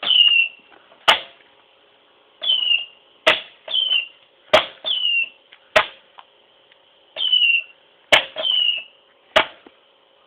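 Saturn missile firework rockets going off inside a microwave oven: a string of short, slightly falling whistles, each about half a second long, and sharp bangs, about a dozen sounds in all at irregular intervals.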